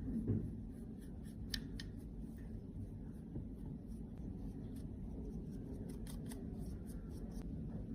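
Scattered small sharp clicks and snips from hand tools working on makeup products, over a steady low hum.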